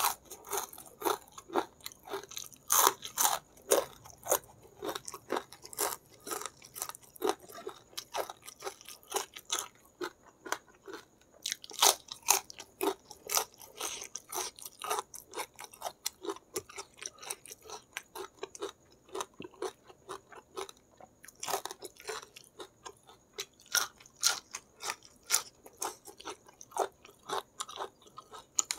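A person chewing and crunching food close to the microphone, with many quick, irregular crunches and wet mouth clicks.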